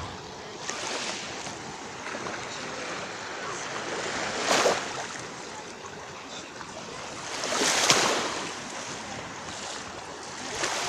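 Small Black Sea waves lapping and breaking on the shore in calm, windless weather, each wave washing in as a rising and falling hiss, the loudest about four and eight seconds in.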